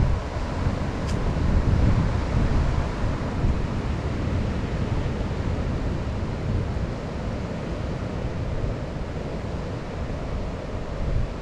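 Wind buffeting the microphone on a moving motorcycle, over the steady running of a Yamaha WR155R's single-cylinder engine.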